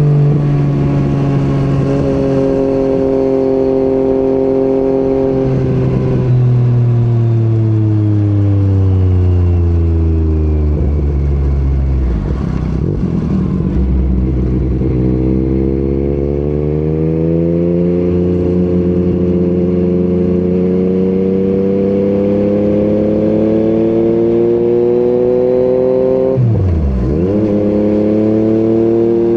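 Yamaha MT-09 three-cylinder engine through an Akrapovic exhaust, on the move. Its pitch falls slowly as the bike slows, then climbs steadily under acceleration and holds, with a brief sharp dip and recovery near the end.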